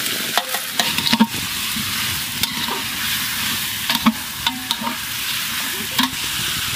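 Fried potatoes and cauliflower sizzling in hot oil and ghee in a large metal pot as a metal spatula stirs them. The spatula scrapes and knocks against the pot several times, each knock a short ringing clank.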